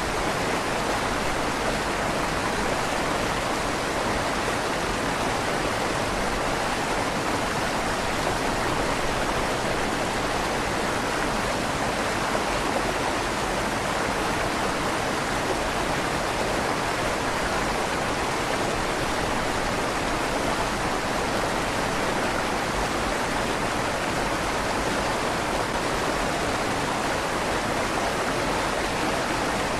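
River water flowing steadily under a stone bridge, a continuous even rushing with a slight echo from the stone tunnel.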